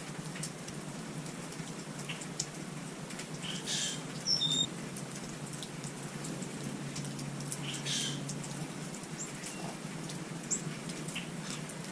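Small birds at a feeder giving a few short, high chirps and chip notes, the clearest pair about four seconds in, among scattered light ticks over a steady low hum.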